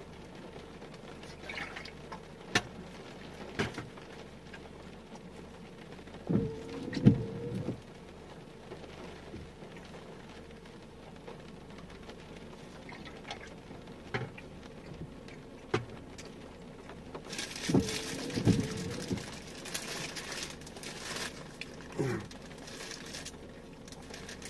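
Scattered raindrops pattering against a faint hiss, with two louder brief sounds about seven and eighteen seconds in.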